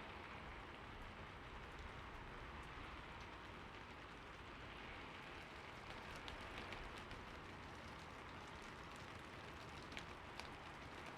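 Soft, steady rain falling, with a few sharper individual drops ticking in the second half.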